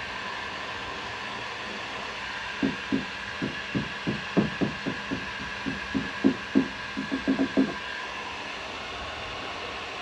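Heat gun running with a steady whine. From about two and a half seconds in, a run of about twenty short, dull knocks, irregular, ending near the eight-second mark.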